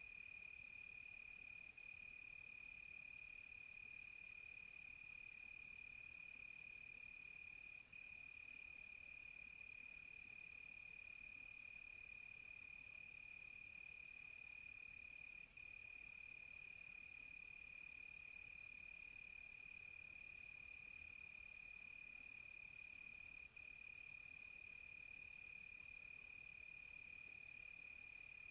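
Night chorus of crickets: a faint, steady high trill, with a second, higher insect call pulsing on and off about once a second. A very high, fast-stuttering insect buzz drops out around the middle and comes back near the end.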